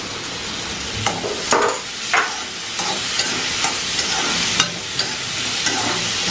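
Sliced ivy gourd and onions frying in oil in a metal kadai, sizzling steadily, while a metal spatula stirs and scrapes against the pan in irregular clinks, the loudest scrapes between one and two and a half seconds in.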